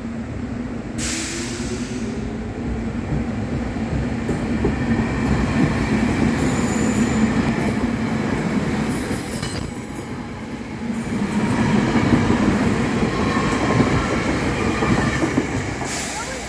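SEPTA Regional Rail train passing, with a steady rumble of wheels on the rails. High-pitched wheel squeal comes in around the middle of the pass.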